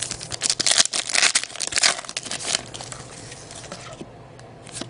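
Trading-card pack wrapper crinkling and tearing as it is opened: a rapid run of crackles for the first two and a half seconds, then fainter rustling as the cards are handled.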